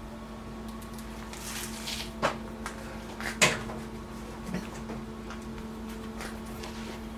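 A few brief knocks and rustles of hand handling, such as a work glove going on and tools being picked up, over a steady low hum. No grinder is running yet.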